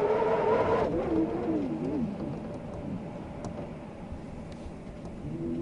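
Wind howling with a whistling tone that wavers and then falls away about two seconds in, leaving a softer rush of air; a new whistling tone starts up near the end.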